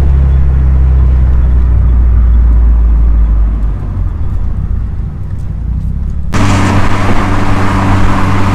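A car's engine droning low and steady with road noise, heard from inside the cabin. About six seconds in, the sound jumps suddenly to a louder, higher engine note with much more road and wind noise.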